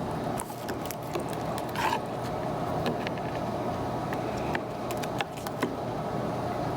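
Steady low hum and hiss, with a few light clicks and taps scattered through it.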